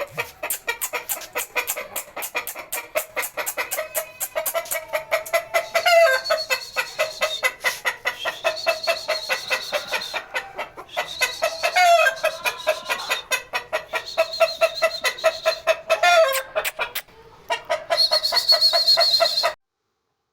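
Bird calls in a rapid, unbroken clucking chatter of short repeated notes, cutting off suddenly near the end.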